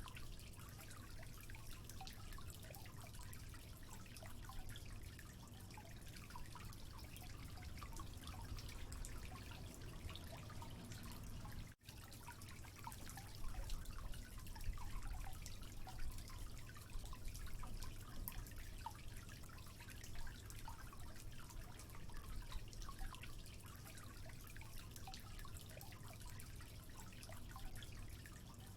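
Water dripping and trickling: many small drops pattering over a steady faint hiss. The sound cuts out for an instant about twelve seconds in.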